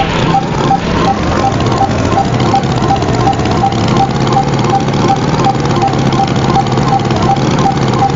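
A tractor engine running steadily at idle, with a short high tick repeating about three times a second.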